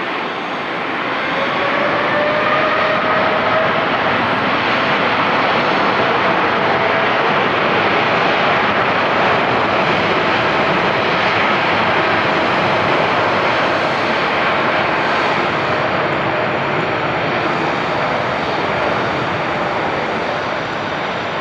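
Boeing 787-9 jet airliner taking off at full thrust: a loud, steady jet roar that swells about two seconds in, with a faint rising whine in the first few seconds, easing slightly near the end.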